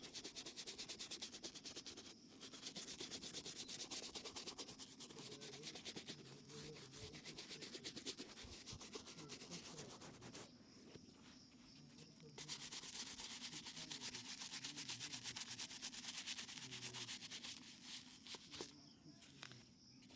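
Rapid back-and-forth rubbing strokes of shoe shining on a leather shoe, faint, in long spells with a short pause about two seconds in and a longer one around halfway.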